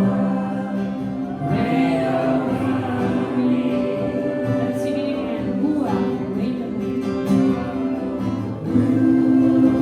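Live worship music: singing with acoustic guitar accompaniment, long held notes over a steady chord backing.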